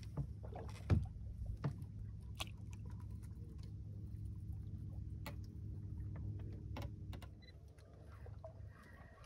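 Low steady rumble aboard a small fishing boat, easing off about seven and a half seconds in, with scattered sharp clicks and taps.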